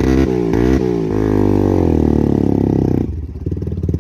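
Bajaj Pulsar NS motorcycle engine running just after a cold start on the choke, revved in a few quick blips in the first second, then held steady before dropping back about three seconds in.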